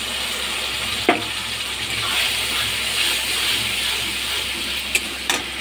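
Hot oil sizzling steadily in a steel kadai as a wet ground mustard, ginger, garlic and cumin paste is poured onto frying tomatoes and stirred in. A sharp knock against the pan about a second in and two lighter clicks near the end.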